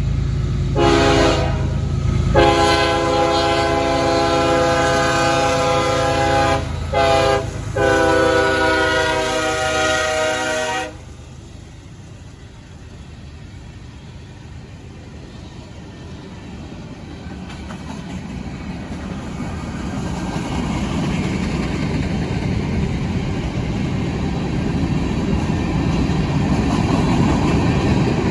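CSX freight train's locomotive horn sounding the grade-crossing pattern of long, long, short, long over the low rumble of the diesel engine, ending about ten seconds in. The rumble of the train then grows louder as it comes closer and runs by.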